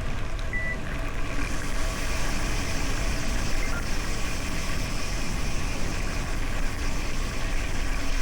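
Steady rushing noise from riding a gravel bike: wind buffeting the camera microphone and tyres rolling over the road surface.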